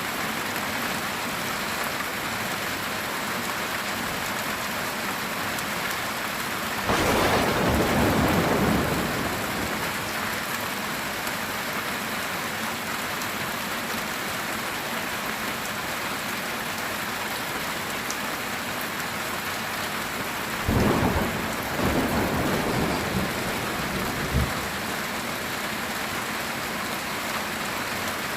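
Heavy rain pattering steadily on a metal tin roof, with two rolls of thunder: one about a quarter of the way in lasting a couple of seconds, and a second, broken into several rumbles, past the middle.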